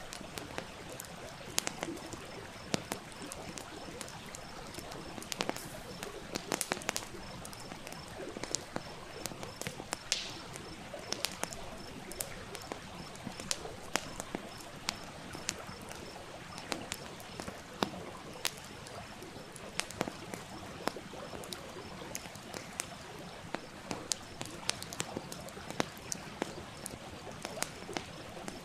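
Wood fire crackling with frequent sharp, irregular pops over the steady rush of a small stream.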